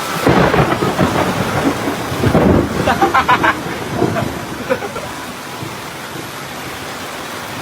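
Heavy rain falling steadily, with a sudden loud thunderclap about a quarter-second in that rumbles on for a few seconds and then fades back into the rain.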